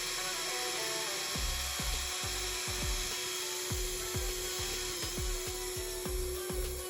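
A knife blade rubbed against an abrasive surface in repeated short strokes, roughly two or three a second, starting about a second and a half in, over background music.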